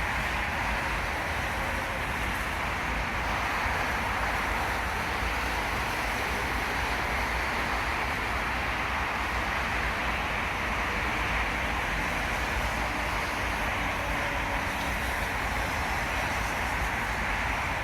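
Steady hum of distant road traffic, an even wash of noise without distinct events, over a low rumble.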